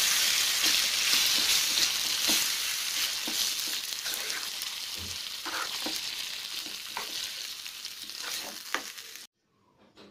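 Mashed roasted-eggplant chutney sizzling in hot oil in a pan while a metal spoon stirs it, with irregular scrapes and taps of the spoon against the pan. The sizzling fades gradually and cuts off abruptly near the end.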